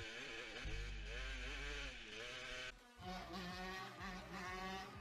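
Motorcycle engine revving up and down as it is ridden hard, its pitch rising and falling over and over, with a brief break about three seconds in before it runs on at a higher, steadier note.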